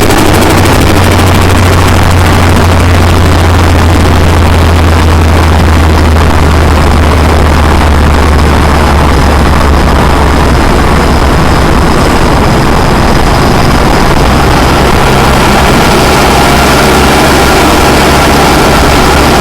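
Nissan 200SX S14's turbocharged SR20DET four-cylinder running steadily, heard up close at the open pod air filter of its aftermarket intake and Garrett GT2871R turbo. The engine note shifts slightly about two-thirds of the way through.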